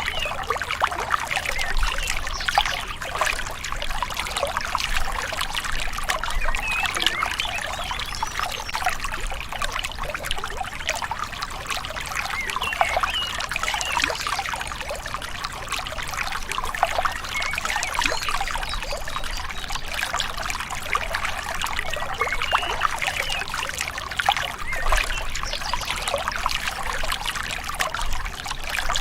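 A gentle river's water babbling and trickling steadily.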